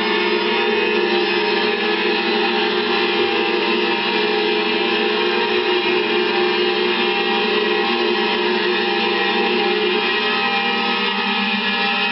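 A steady, dense drone of many held tones over a hiss, unchanging and without a beat.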